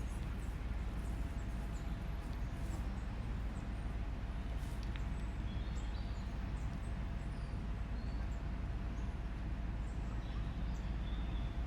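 City park ambience: a steady low rumble of distant traffic, with faint short bird chirps coming and going over it.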